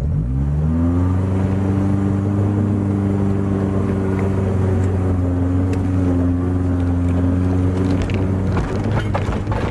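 Subaru Forester's flat-four engine revving up quickly and held at high revs under load as it tries to pull away uphill, dropping off about eight seconds in. A few knocks sound near the end.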